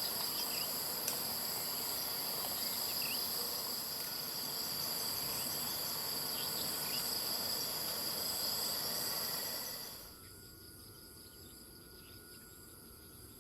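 A steady chorus of insects trilling in several high, continuous tones, with a few brief bird chirps. It drops to a much lower level about ten seconds in and fades out near the end.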